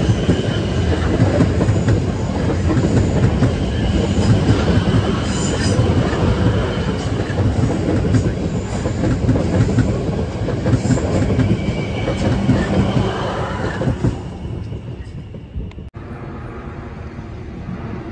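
South Western Railway passenger train passing close by, its wheels rumbling and clattering over the rails, with thin high squealing tones above. The noise drops away about fourteen seconds in as the last coach clears.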